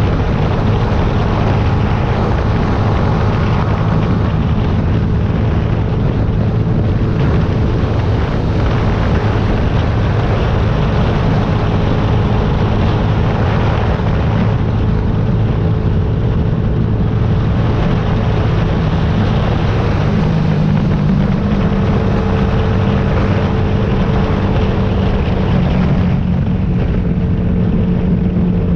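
Yamaha YZF-R125's single-cylinder four-stroke engine running steadily under way, with wind rush over it; the engine note shifts a little about twenty seconds in and again near the end.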